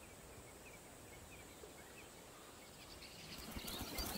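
Faint natural bush ambience with small, high chirps repeating every fraction of a second. It grows slightly louder with faint ticks near the end.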